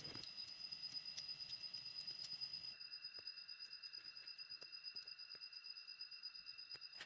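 Crickets chirping in a faint, steady high-pitched trill, with scattered light ticks; the background noise drops away abruptly about three seconds in.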